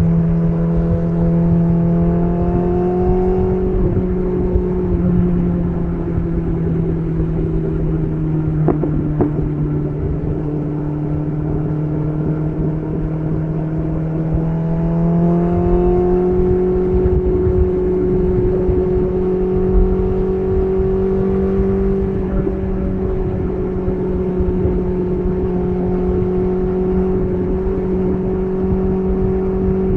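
BMW S1000RR's inline-four engine running through an SC Project CR-T titanium exhaust while riding. The engine note climbs over the first few seconds, drops back, holds steady, then climbs again about halfway through and stays there.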